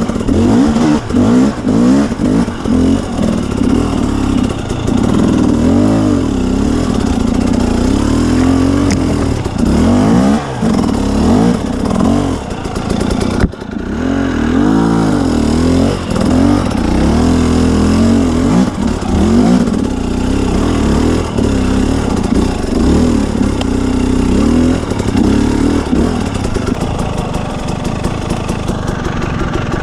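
2017 KTM 250 EXC two-stroke dirt bike engine being ridden, revving up and down with the pitch rising and falling every second or so. There is a brief dip about halfway through.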